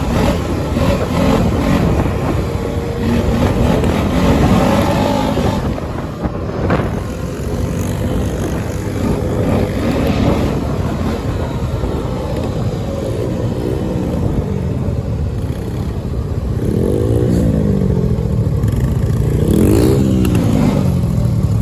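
Dirt bike engine running and being revved, its pitch rising and falling as the throttle opens and closes, with two strong rev-ups and drops near the end.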